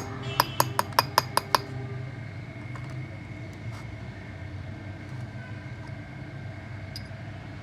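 Quick ringing metal-on-metal taps, about five a second, that stop about one and a half seconds in, leaving a steady low hum.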